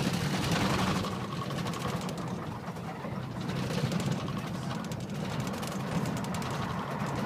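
A vehicle's engine running steadily, with an even rushing noise over it.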